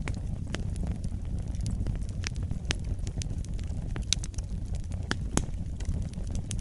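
Wood fire burning in a fireplace: a steady low rumble of flames with frequent, irregular sharp crackles and pops, a couple of them louder about four and five seconds in.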